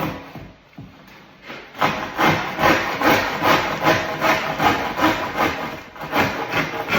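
Handsaw cutting through a worktop in quick back-and-forth strokes, about two or three a second, starting about a second and a half in after a single knock. It is cleaning out the corner of a sink cutout that the circular saw's curved plunge cut left uncut at the bottom.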